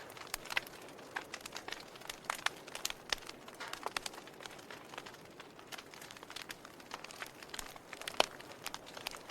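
Wood burning in a fireplace, crackling with irregular sharp pops over a soft hiss, and one louder pop near the end.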